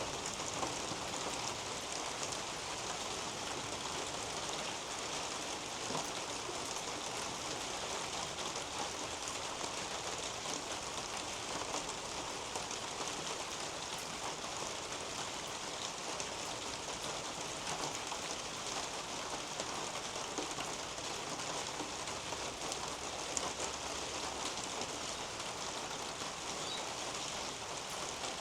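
Steady rain falling through a leafy garden canopy onto the plants and soil, an even hiss dotted with the ticks of individual drops landing close by.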